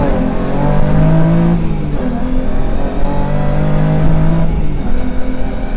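Rally car engine heard from inside the cabin, driven hard on the stage, its note changing twice, about 2 seconds and again about 4.5 seconds in.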